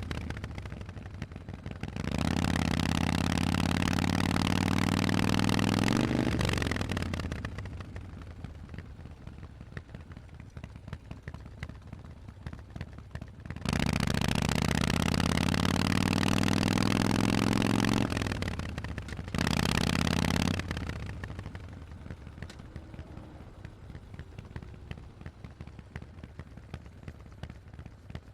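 Harley-Davidson Forty-Eight's 1200 cc V-twin through Vance & Hines exhausts, ridden under throttle. Three times the engine pulls hard with its pitch climbing, and each time it drops off sharply as the throttle closes, coasting with a slowly falling note. A short burst of throttle comes around the middle.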